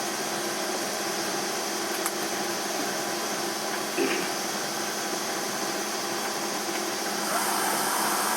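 Steady machine noise from an Emco F1 CNC milling machine just started on its program, with a faint click about two seconds in. Near the end it grows louder and a thin high whine joins in as the machine's drive starts up.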